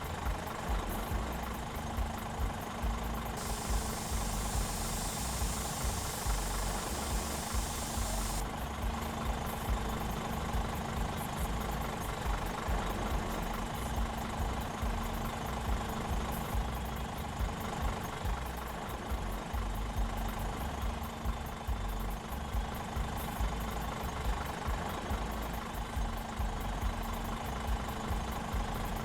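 Scania R420 truck's straight-six diesel engine idling steadily. A hiss joins about three seconds in and stops about five seconds later.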